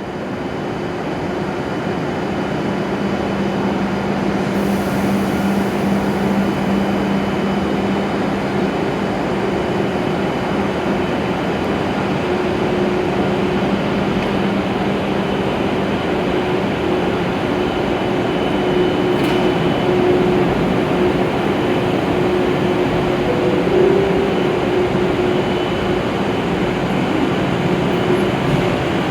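A 413 series electric multiple unit departing: steady running noise with a low hum from its DC traction motors, growing a little louder over the first few seconds.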